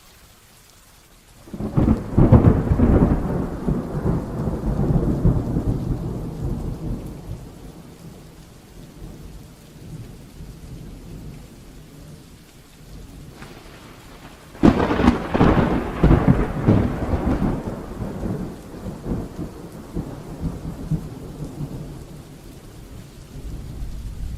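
Heavy rain falling steadily, with two loud thunderclaps. The first crashes in about a second and a half in and rolls away over several seconds. The second comes about fourteen seconds in after a short low rumble and rumbles on before fading back under the rain.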